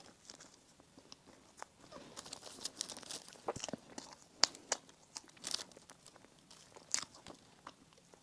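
Close-up eating sounds of bread and pastry: chewing and biting with scattered crisp crunches and crackles, the loudest about four and a half seconds in.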